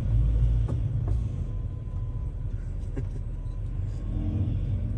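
Low, steady rumble of a vehicle engine, with a few faint clicks.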